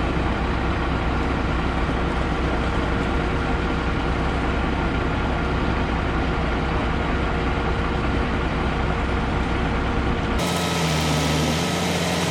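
A heavy engine, such as tree-service truck or machinery, running steadily. About ten seconds in the sound switches abruptly to a different engine note.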